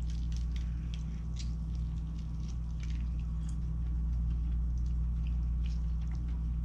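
Small wet clicks and smacks of a smoked chicken wing being pulled apart by gloved hands and chewed, over a steady low hum.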